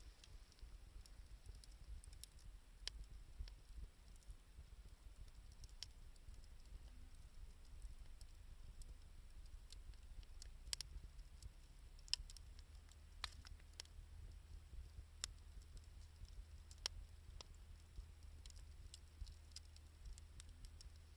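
Faint wood fire crackling, with sparse, irregular sharp pops and ticks from burning reused 2×4 lumber and scavenged wood.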